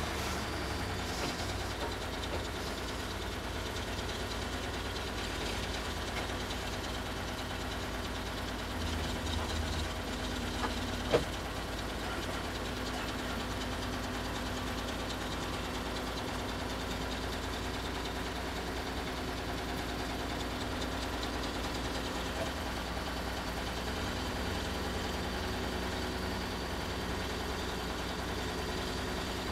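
An engine idling steadily, with a brief louder patch about nine seconds in and a single sharp knock about eleven seconds in.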